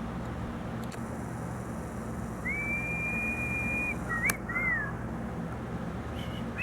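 Whistling: one long steady note held for about a second and a half, then a short rising-and-falling note, with a sharp click between them, over a steady low hum.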